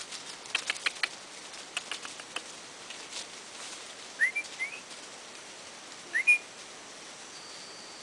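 Short rising whistled chirps from a forest bird: a pair about halfway through and another, louder one near the end, after a scatter of sharp clicks in the first couple of seconds.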